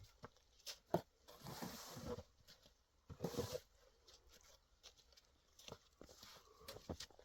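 Footsteps crunching through snow: a few irregular, uneven steps with scattered small clicks between them.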